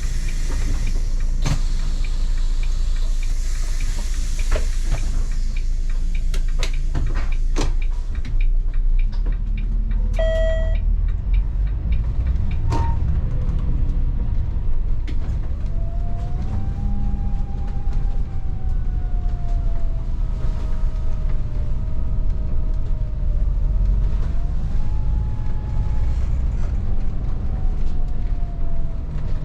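Inside a Volvo 8900 city bus: a steady low rumble with clunks and rattles over the first several seconds, then a short beep about ten seconds in. After that the bus moves off, and a drivetrain whine rises, dips, climbs again and then falls away as it gathers speed.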